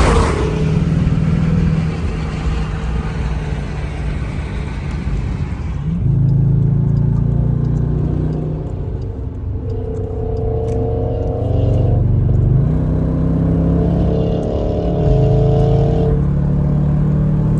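Car engine and exhaust droning while driving, the revs swelling and easing off several times, with a brief loud rush of noise at the very start.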